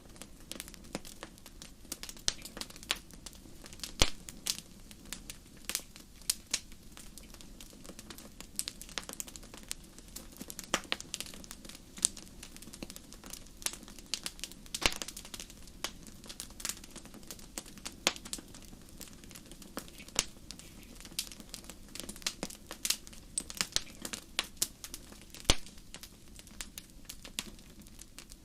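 Wood fire burning in a fireplace: a steady low hiss of flames with frequent irregular crackles and sharp pops, a few of them noticeably louder.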